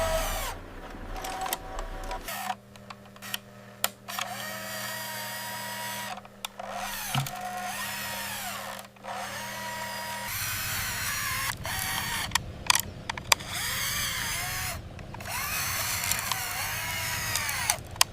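Whirring, grinding noise of a small motor, broken by several short pauses, with a low hum underneath that shifts twice.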